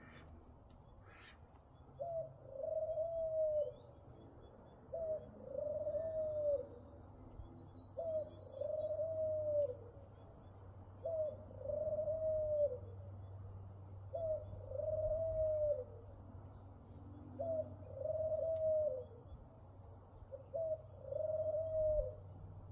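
A bird calling a two-part call, a short note then a longer one that drops in pitch at the end, repeated seven times about every three seconds.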